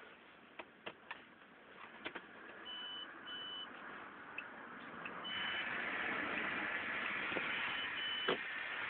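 Truck cab before the engine starts: a few sharp clicks, then several short high beeps from the dashboard warning buzzer. About five seconds in, a steady rushing noise comes up and carries on.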